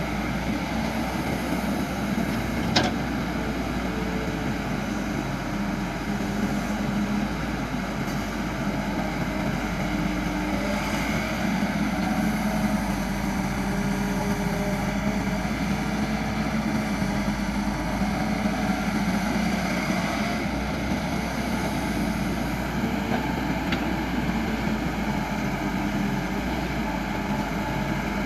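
Caterpillar MS120-8 excavator's diesel engine running steadily under work, with one sharp click about three seconds in.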